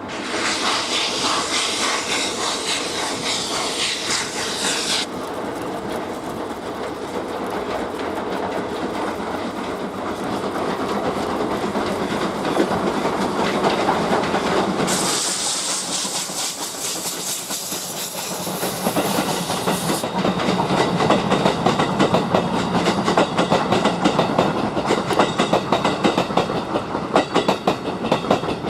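SL Yamaguchi steam train passing, with a hiss of steam, then its coaches clattering rhythmically over the rail joints.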